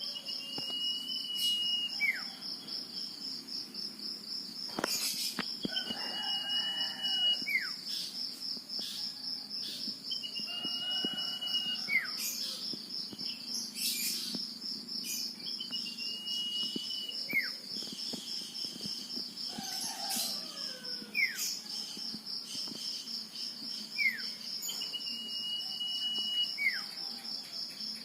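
A male common iora singing: a drawn-out level whistle followed by a short falling note, repeated about every five seconds. A steady, fast-pulsing insect trill runs underneath.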